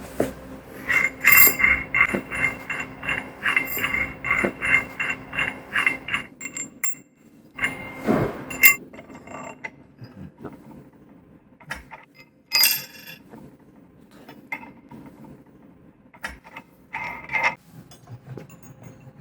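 Metal sawmill-bed parts and hand tools clinking during assembly: a quick run of ringing metallic clicks, about three a second for some five seconds, then scattered knocks and clinks with one louder clang.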